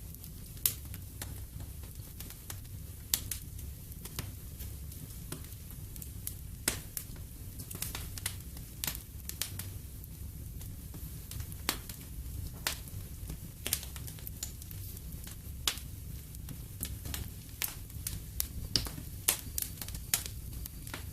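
Wood fire burning in a fireplace, crackling with irregular sharp pops over a soft, steady low rumble of the flames.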